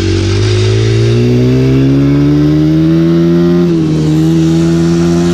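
Dirt bike engine pulling under acceleration while riding, its pitch climbing steadily for about three seconds. It dips briefly, then holds steady.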